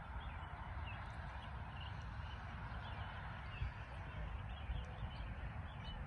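Wild birds chirping: many short high calls scattered over a steady low rumble of outdoor background noise.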